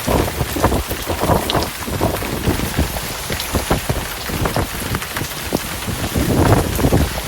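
Heavy rainstorm: dense rain pattering and splashing over a steady low rumble of thunder, which swells near the end.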